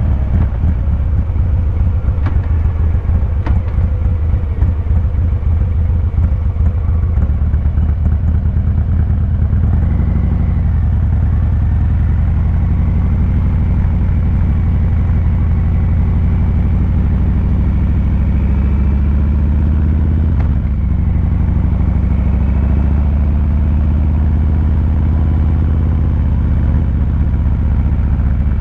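Harley-Davidson Fat Boy 114's Milwaukee-Eight 114 V-twin engine running through its exhaust at an easy riding pace, a deep pulsing rumble. The engine note shifts about a third of the way in and again about two thirds in.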